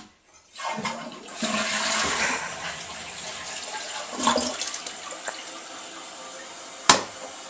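Toilet flushing: a rush of water that is loudest in its first couple of seconds, then settles into a steady hiss of the tank refilling. A single sharp knock sounds near the end.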